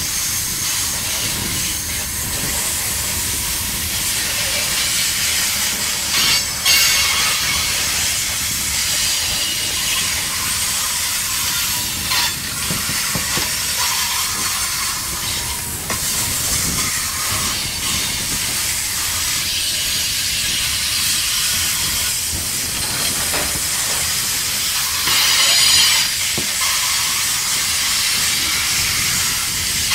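Covered grain hopper cars of a long freight train rolling past close by: a steady rolling noise of steel wheels on rail, broken by a few short knocks and clanks.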